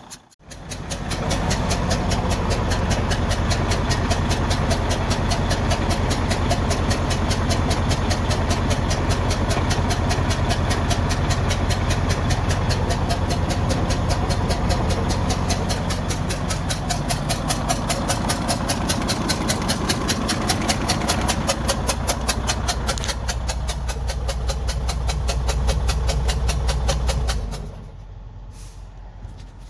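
Detroit DD15 inline-six diesel engine running at a steady idle with an even, fast pulsing beat. The engine sound drops away about 27 seconds in.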